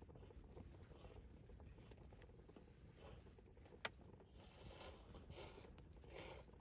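Near silence with faint rustling, and a single sharp click about four seconds in.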